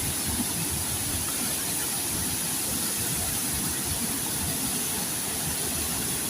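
Waterfall rushing: a steady, even noise of falling water, with a constant high-pitched hiss above it.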